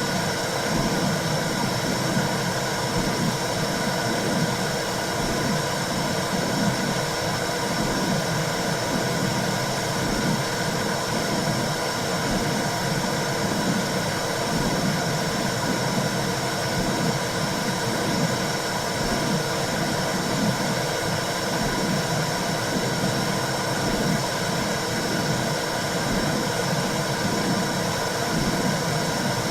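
Womb sound for calming a newborn: a steady whooshing noise like white noise, with a low rhythmic pulsing running under it.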